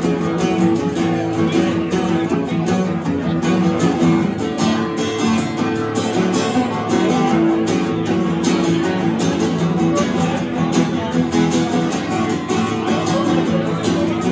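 Acoustic guitar playing an instrumental break in an upbeat country song, with a steady strummed rhythm under changing notes.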